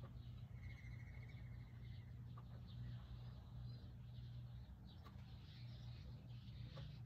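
Quiet background with a steady low rumble, and a brief bird trill about half a second in, followed by a few faint ticks.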